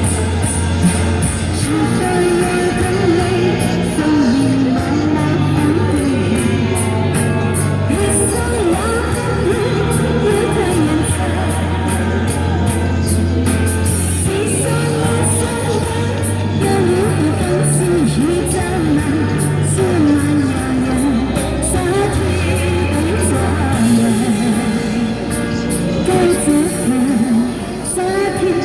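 A singer performing a pop song over a musical accompaniment with a steady bass line, the sung melody running throughout.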